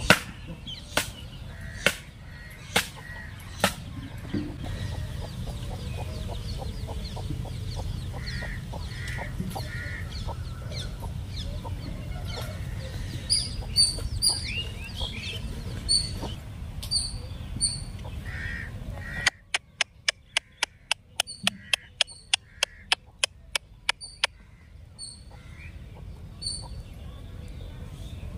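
Birds chirping and a hen clucking over a low rumble. A few sharp knocks come early on. After the rumble drops away past the middle, a rapid run of about twenty sharp clicks follows.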